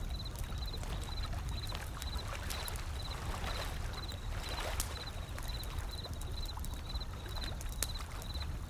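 A wood fire crackling with scattered sharp pops over the low rumble of ocean waves, with one wave washing in about halfway through. A short high chirp repeats about twice a second.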